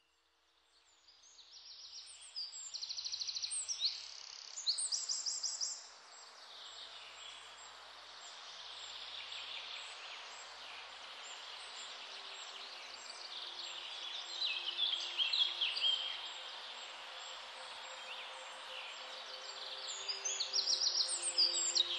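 Songbirds singing and chirping, with rapid trills of quickly repeated high notes, over a steady outdoor hiss and a faint low hum. The sound fades in over the first two seconds.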